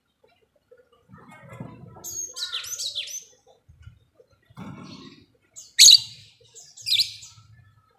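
Lovebirds chirping in short shrill bursts, with two loud, piercing calls near the end.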